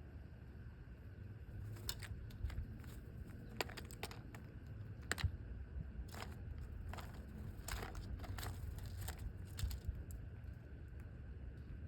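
Irregular sharp little clicks and taps of seed being pecked and cracked at a bird feeder, over a low steady rumble.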